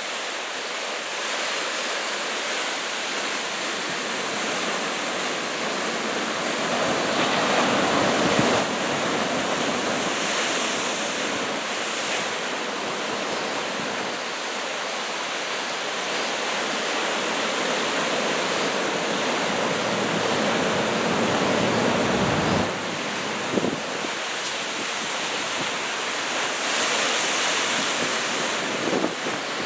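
Heavy typhoon surf of about two metres breaking and rushing on the shore as a continuous wash of noise. It swells louder twice, about a third of the way in and again about two thirds in, as bigger sets break.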